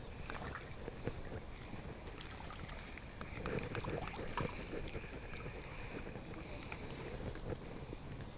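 Moving river water sloshing and trickling, with scattered light knocks and clicks.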